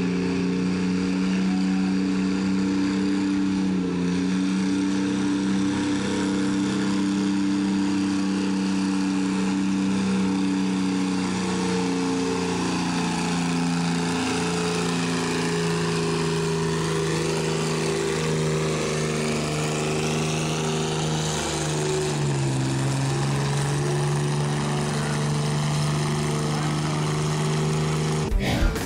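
Enhanced antique pulling tractor's engine running hard at steady high revs during a pull, its pitch stepping down about 22 seconds in.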